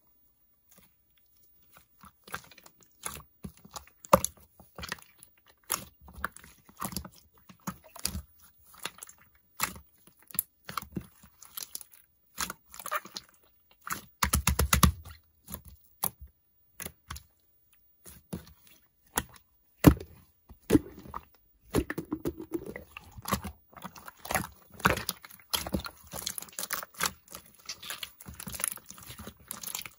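Close, crunchy chewing: a dense run of sharp crunches and clicks that starts about two seconds in and grows busier toward the end.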